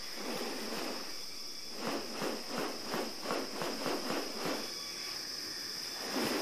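Rainforest insects droning on one steady high note. In the middle comes a run of about a dozen short rustling pulses, about four a second.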